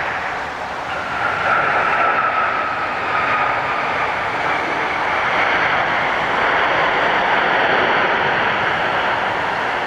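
Boeing 787 jet engines during landing: a steady, loud rush of jet noise, with an engine whine that falls slightly in pitch from about a second in.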